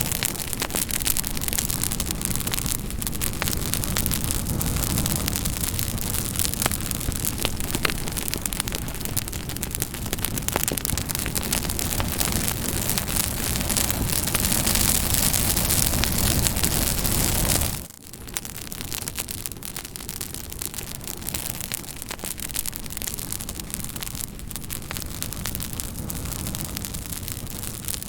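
Campfire crackling and popping: a steady hiss of burning wood dotted with frequent sharp pops. About 18 seconds in the sound drops suddenly to a quieter, thinner crackle that carries on to the end.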